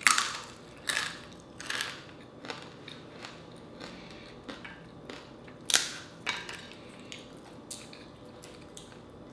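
Close-up chewing of crisp fried dried fish: an irregular run of crunches, loudest at the very start and again about six seconds in, thinning out near the end.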